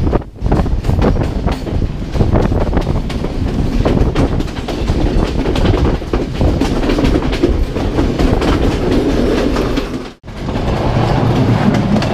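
Passenger train running along the track, wheels clacking over rail joints with a steady rumble; the sound briefly cuts out about ten seconds in.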